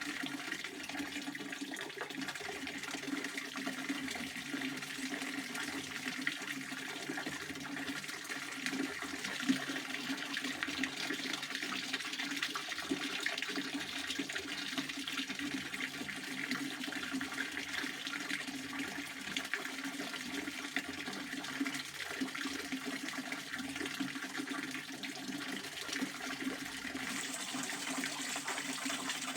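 Pond water fountain splashing steadily, a continuous rush of falling water.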